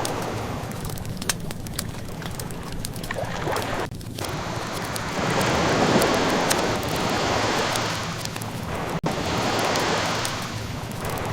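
Ocean waves washing in slow swells that rise and fade, loudest about halfway through, with the fine, scattered crackle of a wood fire over them. A split-second dropout cuts the sound about nine seconds in.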